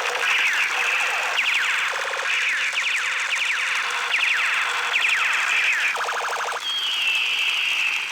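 Electronic sound effects from a battery-powered toy gun: a string of quick falling zaps, broken twice by a rapid-fire stutter, then one long descending tone near the end.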